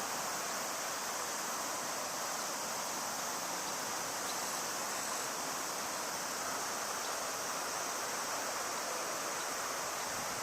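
Steady rushing of river water, an even hiss with no change in level.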